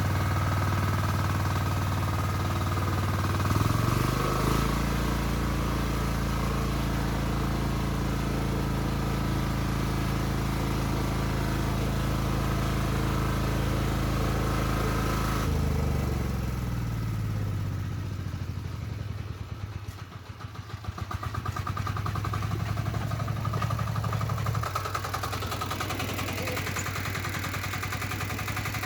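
Diesel walk-behind tractor engine running. It revs up about four seconds in and holds a steady high speed for about eleven seconds, then drops back to a low idle, and picks up again a few seconds before the end.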